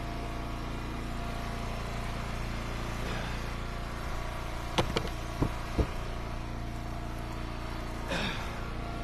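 Gas engine of an Eastonmade wood splitter running steadily at idle, with three sharp knocks about five to six seconds in.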